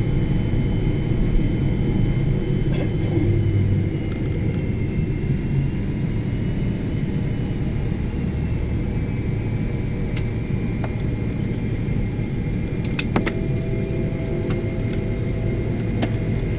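Steady low rumble of a jet airliner's cabin on the ground just after landing, with a faint steady whine above it and a few sharp clicks about ten and thirteen seconds in.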